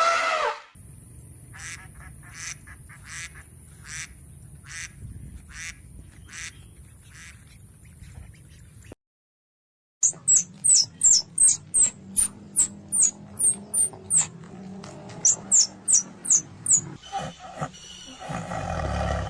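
A duck quacking in a steady run, about one quack a second, over a thin high steady tone. After a short break comes a quick series of high, falling bird chirps, about two a second, and a louder rough sound builds near the end.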